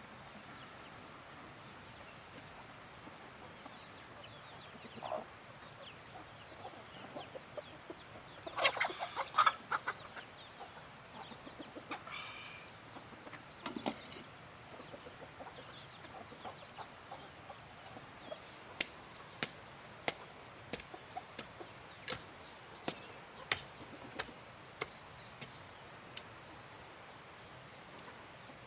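Chickens clucking, with a short burst of louder calls about nine seconds in. Later comes a run of about a dozen sharp, evenly spaced knocks, roughly one and a half a second.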